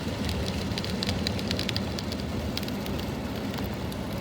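Heavy rain falling steadily, a dense hiss with scattered sharp drop ticks.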